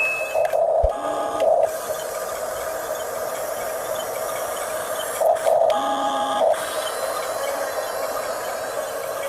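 Electric motors and plastic gearboxes of a Huina 1569 radio-controlled toy bulldozer whirring steadily. The whirr rises in two louder surges, about a second in and again around five to six seconds in.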